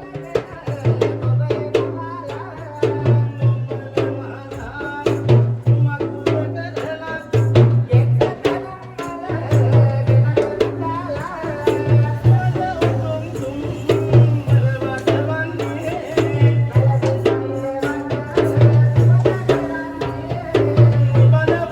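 Sri Lankan low-country ritual drumming for a Gara Yakuma dance: a fast, unbroken drum rhythm with a pitched melody sustained over it.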